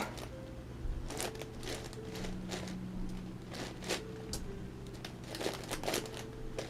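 Plastic layers of an 11x11x11 Rubik's cube being turned by hand: light, irregular clicks and scraping rattles.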